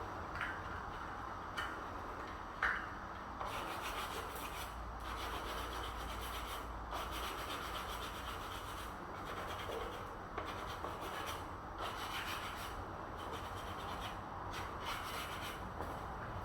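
A few light knocks, then repeated abrasive rubbing strokes on a surface, about one a second.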